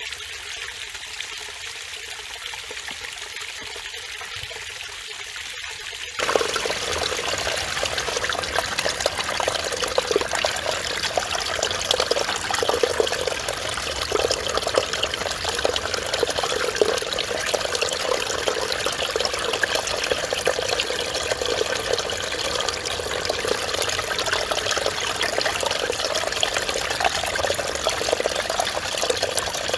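Mountain stream water babbling and splashing over rocks, a steady wash of sound. About six seconds in it suddenly gets louder and fuller, and it stays that way.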